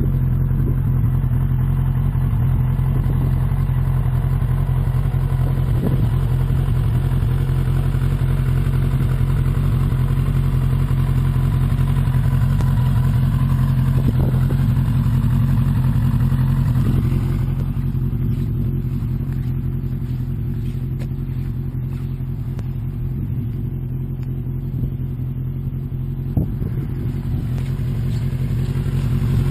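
Suzuki Bandit 1200's inline-four engine running steadily, easing off a little about two-thirds through and picking up again near the end.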